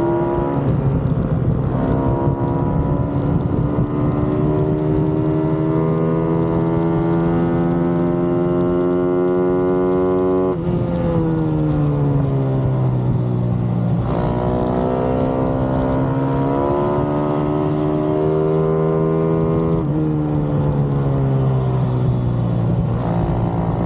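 Pit bike's single-cylinder four-stroke engine under racing load. The revs climb steadily for about ten seconds, drop sharply and sink back, climb again, and drop sharply once more near the end.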